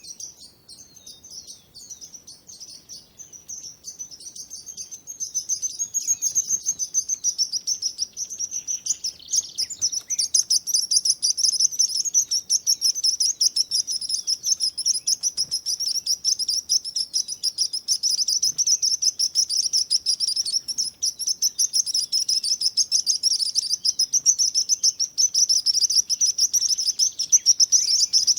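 A chorus of small songbirds chirping rapidly and continuously, quieter for the first few seconds and then growing loud and dense from about five seconds in.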